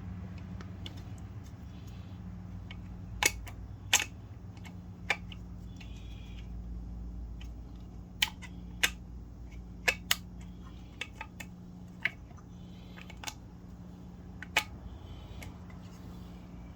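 About a dozen sharp, irregular clicks and taps of septic aerator pump parts being handled and fitted together, over a steady low hum.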